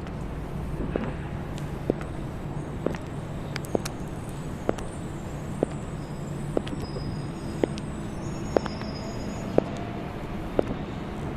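Women's high heels clicking on a pavement in a slow, even walk, about one step a second. A steady rumble of city traffic runs underneath.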